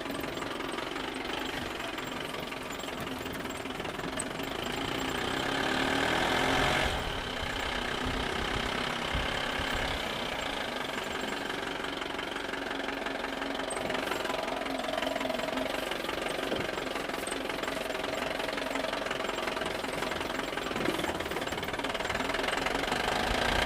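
Tractor engine running steadily, a little louder about five to seven seconds in.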